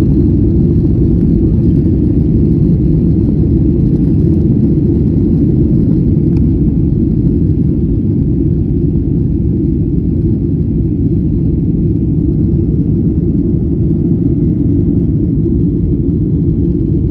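Steady low rumble of an airliner cabin in flight: constant engine and airflow drone.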